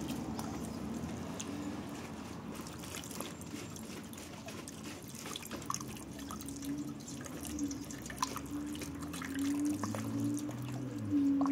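Light dripping and trickling of liquid with scattered small clicks.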